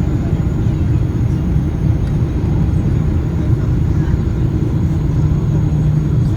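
Steady low rumble of a Boeing 777-200 airliner's engines and rushing air during its landing.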